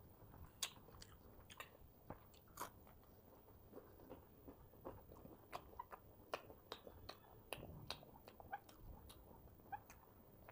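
Close-miked chewing of a crisp fried green-chickpea pakoda: irregular sharp crunches and mouth clicks, a few each second, over faint mouth noise.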